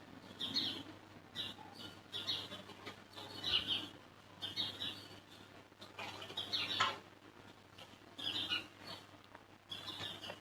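Small birds chirping in short, high, repeated calls about once a second, with a single sharp click about seven seconds in.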